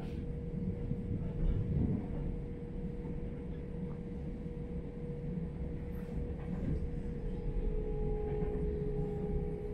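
Inside a moving electric commuter train: a steady low rumble of the wheels running on the rails, with a steady hum throughout. Two fainter tones join in during the last couple of seconds.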